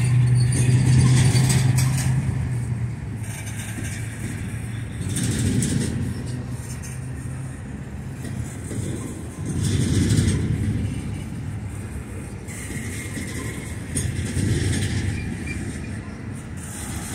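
Freight cars loaded with trash containers rolling past on the rails. The wheel rumble swells and fades every few seconds, and a steady low hum fades out over the first few seconds.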